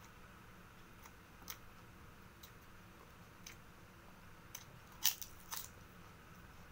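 Close-up eating sounds: a few scattered crisp crunches and mouth clicks while chewing fried rice, with the loudest run of crunches a little after five seconds in.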